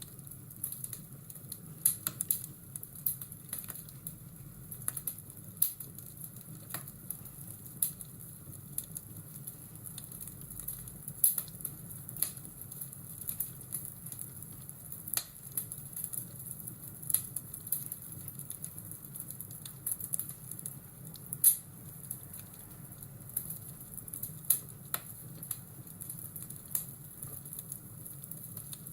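Fireplace crackling: irregular sharp pops and snaps, a few a second, over a steady low rumble.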